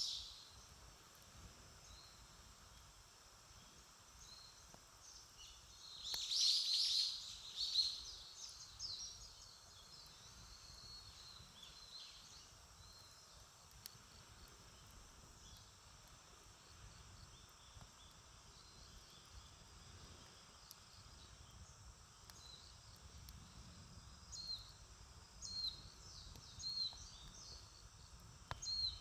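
Small birds chirping outdoors: a loud flurry of calls about six seconds in, then a few short chirps near the end, over a steady high hiss of outdoor background noise.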